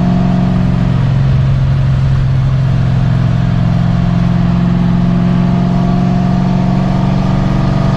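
Car engine running steadily under load with a low drone; its pitch dips slightly a couple of seconds in, then slowly climbs.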